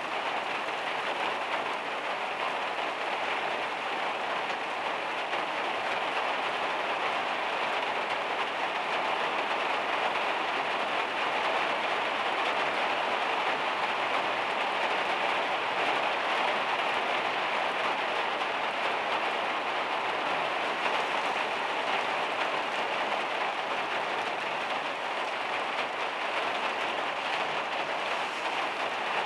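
Heavy rain drumming steadily on the van's metal roof, a dense even patter without let-up.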